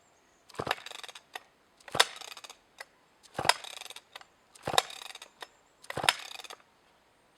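McCulloch 2-10 chainsaw's recoil starter pulled five times in quick succession, each pull a sharp snap with a short rattling whir of the rope and flywheel. The engine never fires, a no-start that leads to a check of the spark plug.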